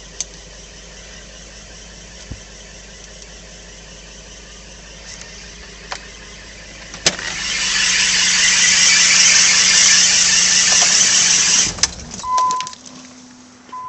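A 1992 Nissan 300ZX's 3.0-litre V6 running steadily. About seven seconds in, a loud, high hissing squeal starts, holds for about five seconds and cuts off; this is the unexplained noise, loudest at the front right of the car. The engine stops just after, followed by short electronic beeps.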